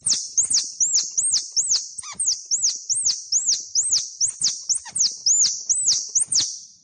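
An animal's rapid run of high-pitched chirps, about three a second, each note a quick arch rising and falling in pitch, with a sharp start to each. The chirps stop shortly before the end.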